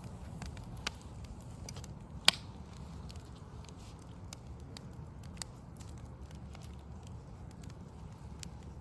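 Burning wood logs crackling, with scattered small snaps and one sharper pop about two seconds in, over a low steady rumble.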